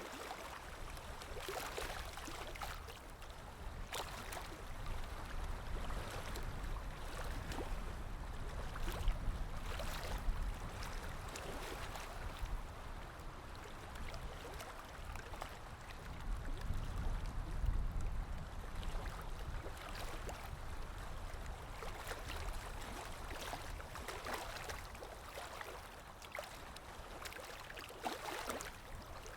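Water lapping in small, irregular splashes over a low wind rumble that swells twice.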